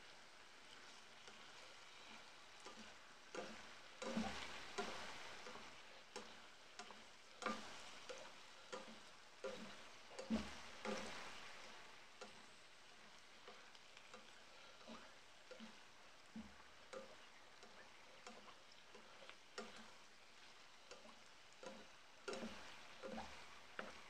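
Chopped cabbage frying quietly in a deep pan, with a faint sizzle. A slotted spatula stirs it, scraping and tapping against the pan at irregular intervals, busiest between about 4 and 12 seconds in.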